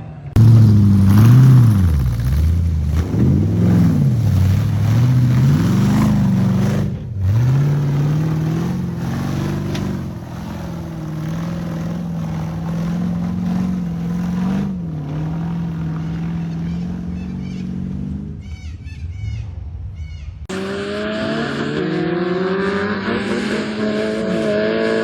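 Off-road 4x4 engine revving hard, its pitch swinging up and down over and over. After an abrupt break about seven seconds in, it holds a steadier high rev for about ten seconds.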